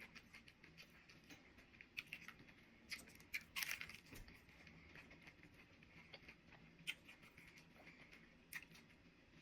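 Chewing crunchy hard-shell tacos: scattered short crisp crunches and mouth clicks, with a louder run of crunching about three and a half seconds in.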